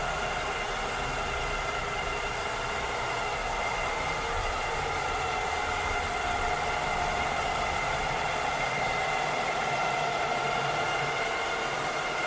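Cleaning robot's motor running steadily: an even whirring hiss with a high motor whine of several steady tones on top.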